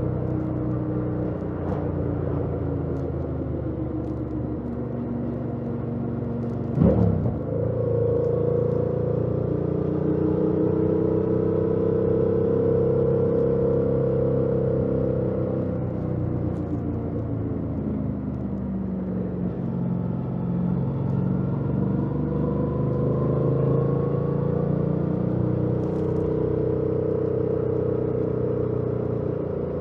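Yamaha MT-07's 689 cc parallel-twin engine running under way on stock exhaust, with road noise; its pitch sinks as the bike slows about two-thirds of the way through, then climbs again as it accelerates. A short, loud rushing sound about seven seconds in.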